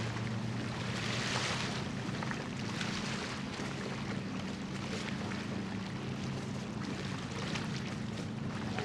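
Low, steady drone of a cargo ship's engine, with wind gusting on the microphone in the first second or so.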